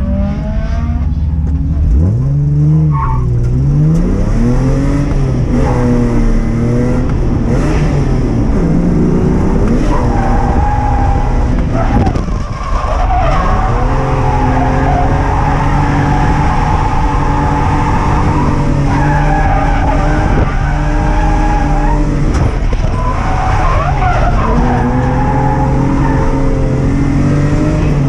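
Ford Barra straight-six in a Nissan R31 Skyline drift car, heard from inside the cabin, revving up and down between slides and held at high revs through long drifts with the tyres squealing.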